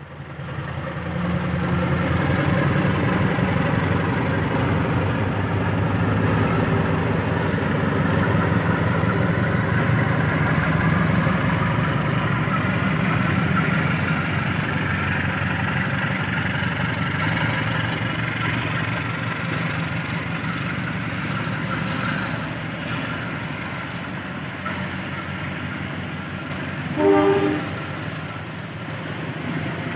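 A train running through the station with a steady rumble and wheel clatter that eases a little in the second half. A short horn blast sounds near the end.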